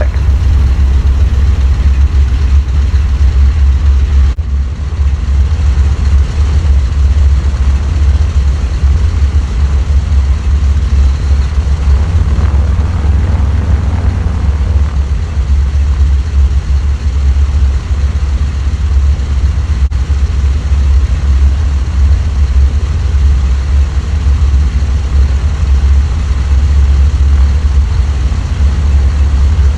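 B-29 Superfortress's four Wright R-3350 radial engines running steadily at low power, a deep, even drone.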